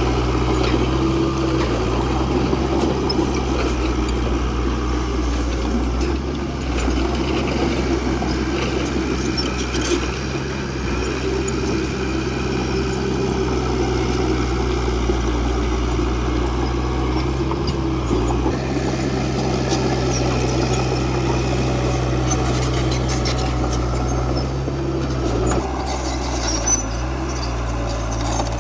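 Crawler bulldozer's diesel engine running steadily at working speed, with a few faint clinks on top.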